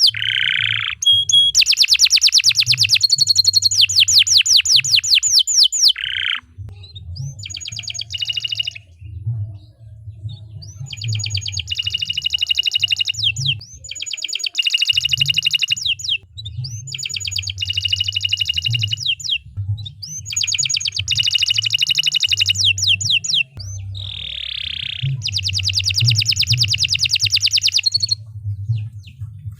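Domestic canary singing a long, vigorous song of rapid trills and repeated rolling phrases, broken by short pauses and a few quick downward-sweeping notes, over a faint low hum.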